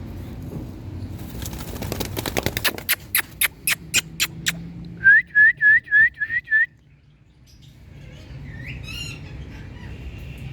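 Pet parrot sounds: a fast run of sharp beats that slows as it goes, like wing flaps, then a burst of six quick rising whistled notes, the loudest part, and about two seconds later a single harsher squawk.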